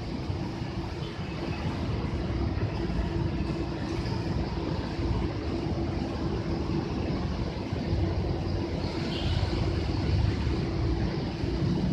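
A train approaching on the line: a steady rumble with a steady hum that grows slowly louder.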